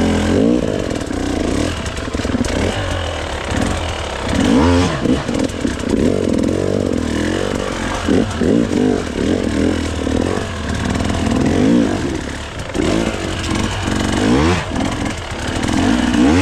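GasGas hard enduro dirt bike engine revving up and down in repeated bursts, the throttle blipped again and again as the bike struggles for traction on brutally slick ground.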